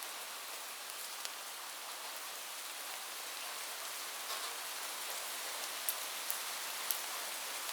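Steady rain falling on a roof: an even hiss with scattered sharp drop ticks, a few of them louder near the end.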